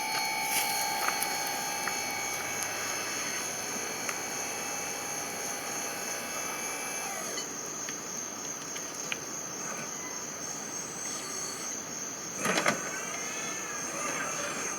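Small electric motor of an RC model whining steadily, cutting out about halfway through, over a continuous high pulsing chirp; a brief louder burst comes near the end.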